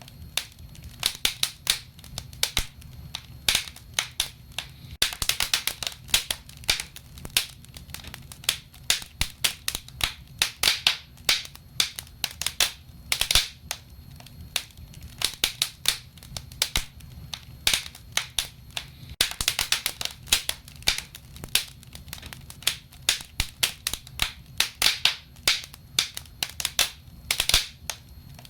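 Wood fire burning in a fireplace, crackling and popping: many sharp irregular snaps, some in quick clusters, over a low steady rumble of the flames.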